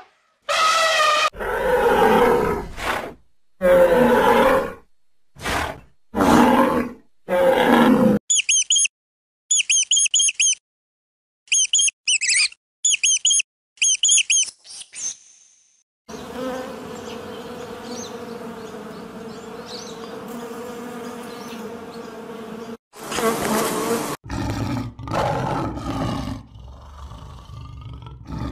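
A sequence of animal calls. First come loud, pitched cries in short bursts. Next is a run of high, quick chirps in groups, then a steady buzz lasting several seconds, and louder calls again near the end.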